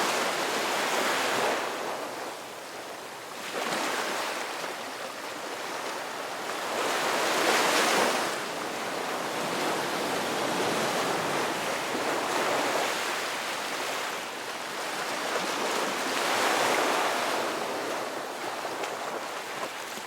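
Ocean waves breaking and washing on a shore, the surf swelling and fading every few seconds, loudest about seven seconds in.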